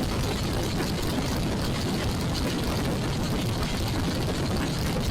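Royal Enfield Classic 350 single-cylinder motorcycle riding along, its engine running steadily under a constant rush of noise on the action camera's microphone.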